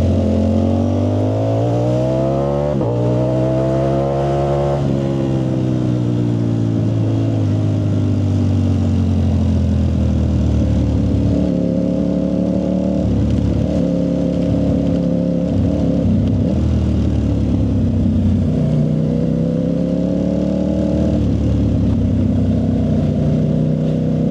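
Ducati Streetfighter V4S's 1103 cc V4 engine through a Zard aftermarket exhaust, running loud: it climbs in pitch for about five seconds with a short break near three seconds, like an upshift, then winds down slowly and settles into steady running at a few different pitches.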